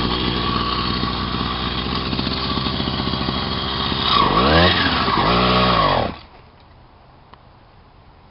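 Small 66cc moped engine running fast and steady, then revved up and down twice. The engine sound cuts off abruptly about six seconds in, leaving only a faint background.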